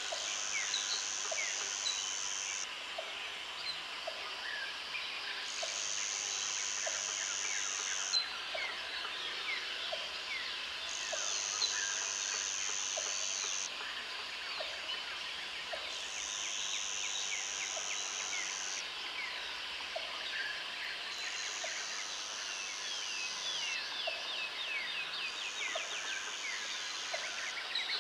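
Jungle ambience: an insect's high, even buzz switching on and off in spells of about three seconds. It sits over a dense chorus of bird chirps and calls, with a soft low tick repeating about once a second underneath.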